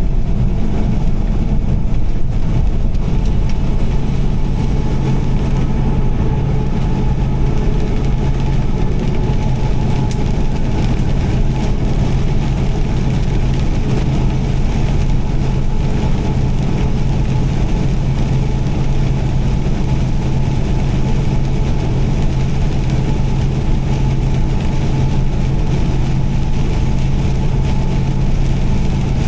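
A car driving along at steady speed: continuous engine and road noise with a low hum that settles in about four seconds in.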